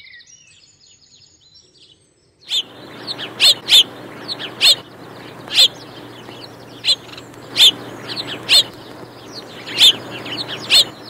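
Sparrows chirping: short, sharp chirps repeated irregularly, about one or two a second, over a steady background hiss with a low hum, starting a couple of seconds in after a near-quiet moment.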